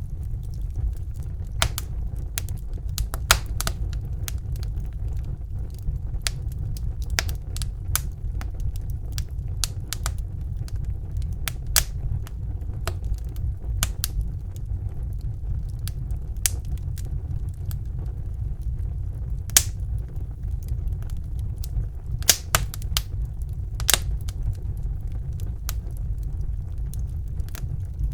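Fire burning in a fireplace: irregular sharp crackles and pops, a few louder snaps among them, over a steady low rumble of the flames.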